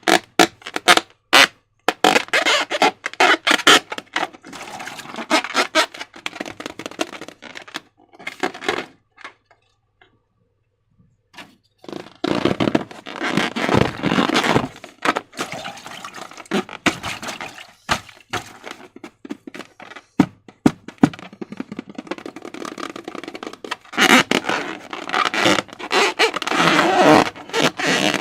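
Hands working slime and balloon materials: a run of sharp clicks, then sticky crackling and scraping, with a silent pause about ten seconds in.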